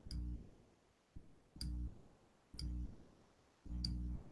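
Four faint, sharp clicks at uneven intervals of about a second, each followed by a short low hum.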